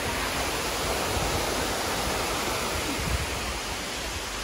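Steady rushing of the cascading water of Dunn's River Falls.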